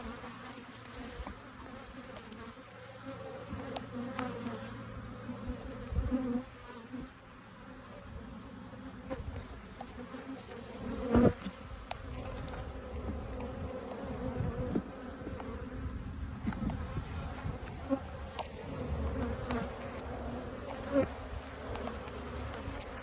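Swarm of honeybees buzzing as a steady hum around an opened hive, the bees getting aggressive. A few sharp knocks break in, the loudest about eleven seconds in.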